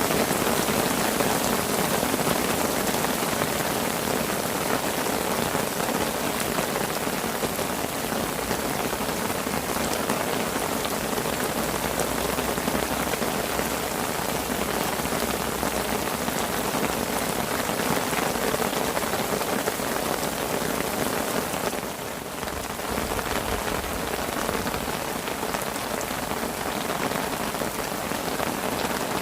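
Steady rain falling on a fishing parasol overhead, a dense even patter that eases slightly for a moment about two-thirds of the way through.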